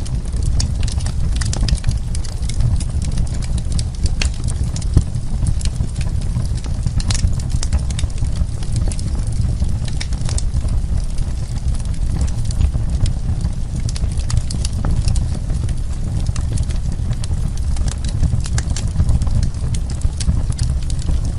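Burning wood crackling and popping: a steady low rumble of the fire with many sharp, irregular crackles and pops.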